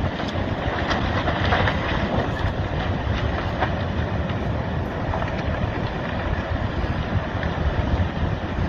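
Landslide rumbling as it slides into the sea: a steady low rumble with wind buffeting the microphone. Scattered cracks and snaps come about one to four seconds in.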